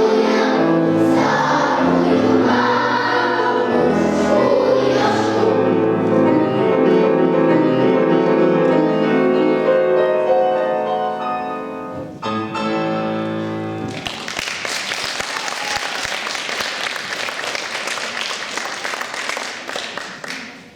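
Children's choir singing the closing bars of a song with accompaniment, ending on a held chord about 12 to 14 seconds in, followed by audience applause.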